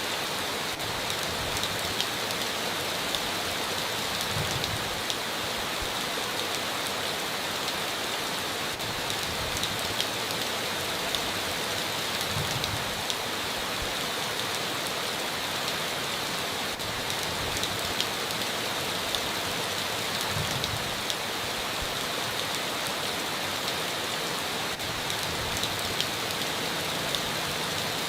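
Steady heavy rain, a dense even hiss with many sharp individual drop hits. A brief faint low rumble comes about every eight seconds.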